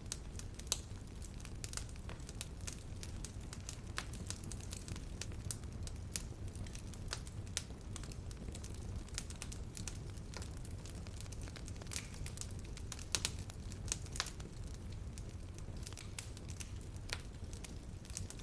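Fire in a fireplace crackling: irregular sharp pops and snaps over a low, steady rumble of burning.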